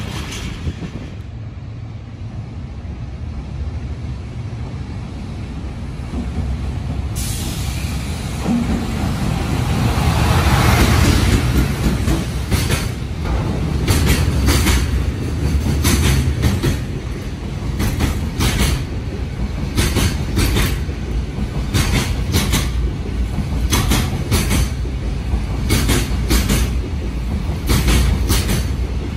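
Freight train wagons rolling past close by at a station platform: a steady low rumble of steel wheels on rail, with repeated clacks of wheelsets over the rail joints from a little under halfway through.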